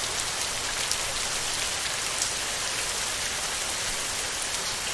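Heavy, steady rain falling on a tin roof: a dense hiss dotted with the sharp ticks of single drops.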